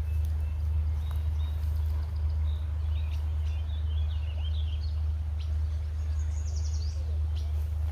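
Birds chirping in short calls over a steady low rumble, likely wind on the microphone.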